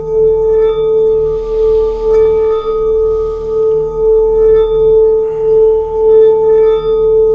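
Singing bowl sounding one sustained steady tone with higher overtones, its loudness swelling and fading about once a second. A soft hiss passes over it a second or two in.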